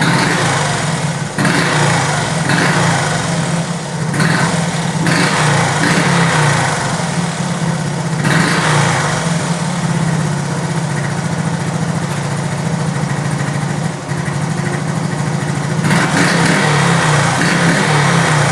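1977 Honda ATC 90's small single-cylinder four-stroke engine, warm, idling just after start-up and blipped in several quick revs, with a longer rev near the end.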